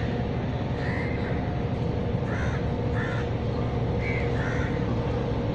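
Crows cawing, about six short calls a second or so apart, over a steady low rumble.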